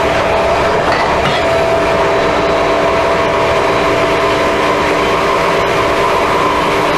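NS class 1700 electric locomotive running at a steady speed: an even motor hum with several held tones over the rolling noise of the train.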